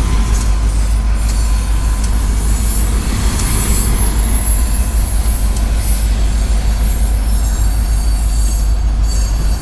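A train passing close by, its steel wheels squealing on the rails over a steady rumble.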